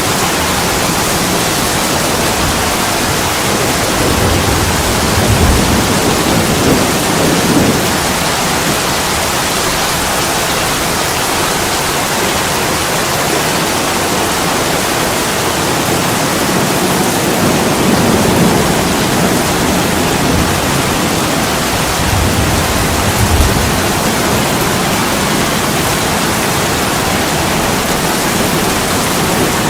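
Steady heavy rain pouring onto attic window glass, with low rumbles swelling up a few times.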